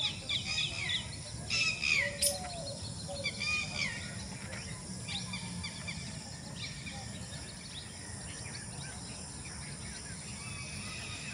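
Birds calling in quick series of short whistled notes that slide downward, busiest in the first four seconds and fainter after, over a steady low background rumble.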